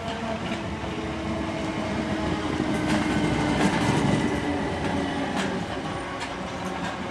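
An electric multiple-unit train passing on the rails. It grows louder to a peak about halfway through and then eases off, with a steady motor hum and sharp wheel clicks over the rail joints.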